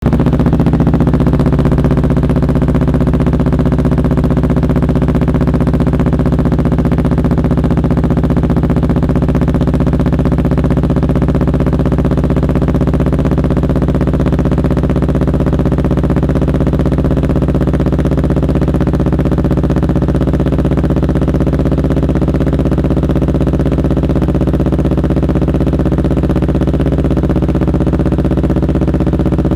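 Kawasaki Ninja 250 FI (2018) motorcycle's fuel-injected parallel-twin engine idling steadily at an even, unchanging pitch.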